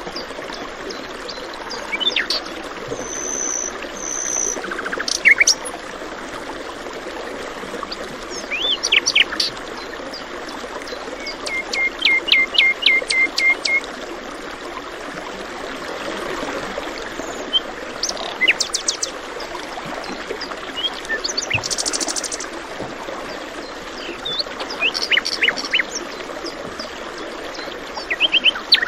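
Several songbirds chirping and singing over the steady rush of flowing water, with a quick trill of evenly spaced notes about halfway through.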